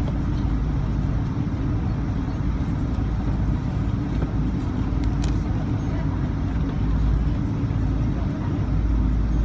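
Steady low rumble and hum of a Boeing 777-200ER's engines and cabin air heard from inside the passenger cabin, with the engines holding steady at low power and not spooling up.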